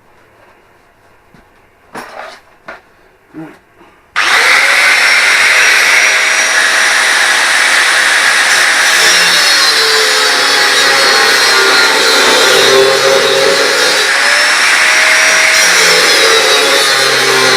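A few knocks, then about four seconds in a power tool starts abruptly and runs loud and steady, its whine rising and falling as it cuts into the steel hinge of a tractor door.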